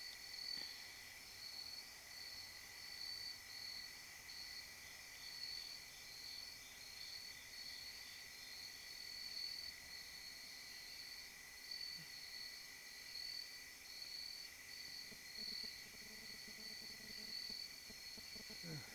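Night-time insect chorus of crickets: a steady high trill with a second, higher trill pulsing in a regular rhythm over it.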